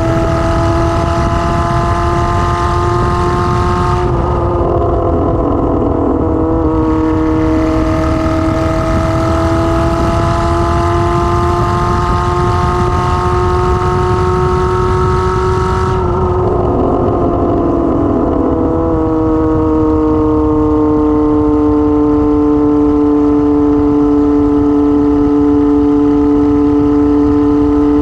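Kawasaki ZR-7's 750cc air-cooled inline-four running loud with no exhaust muffler while riding. Its pitch climbs slowly under acceleration, drops abruptly at upshifts about four seconds in and again about sixteen seconds in, and then holds steady at cruise.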